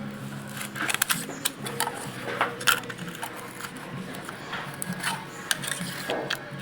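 Irregular sharp clicks and light metal clinks of hand tools working on the Ford 5000 tractor engine's valve gear, over a faint steady low hum.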